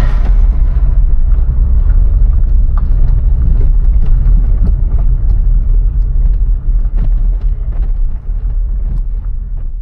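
A VW Golf IV 1.6 driving: a steady low rumble from the road and engine, with scattered sharp clicks from the road surface. It begins to fade out near the end.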